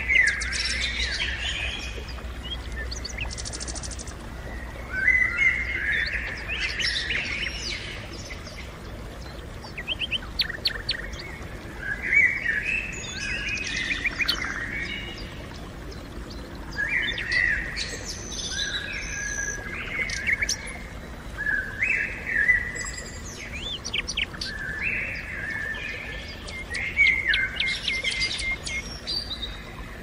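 Songbirds singing: short bursts of chirping, whistled song recurring every two to three seconds.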